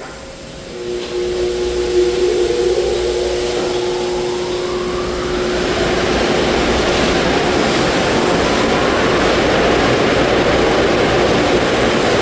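Car wash tunnel dryer blowers starting up: a motor hum comes in under a second in, a rushing whine rises in pitch over a few seconds, then the air blast runs loud and steady.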